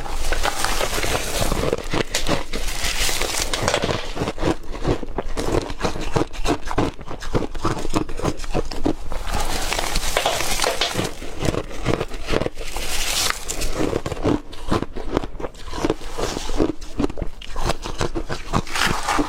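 Hard crushed ice being chewed close to the microphone: dense, continuous crunching and crackling.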